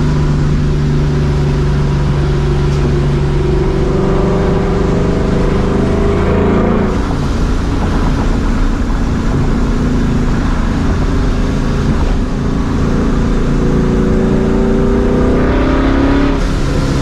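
Vortech-supercharged 4.6-litre V8 of a New Edge Mustang GT, with a catless X-pipe and Borla ATAK exhaust, accelerating through the gears, heard through open windows. The engine pitch climbs and drops sharply at a gear change about six and a half seconds in, then climbs and drops again near the end.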